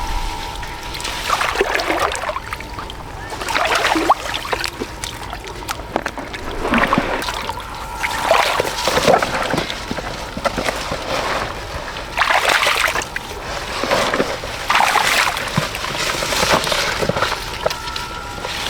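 Water splashing and sloshing in repeated bursts, about every one to two seconds.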